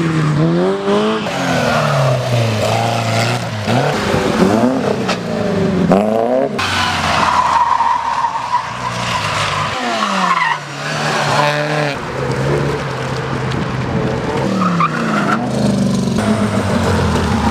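Classic car engines revving up and dropping back again and again as they are driven hard through a gymkhana course, with a sustained tire squeal around the middle. The sound changes abruptly a few times, from one car to another.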